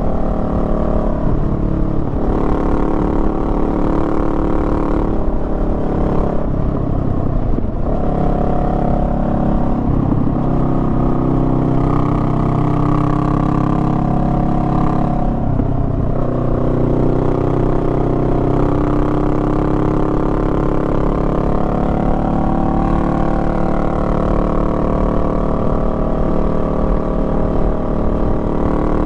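Honda Rebel 500's parallel-twin engine running on the move, its note falling and climbing again several times as the throttle and revs change.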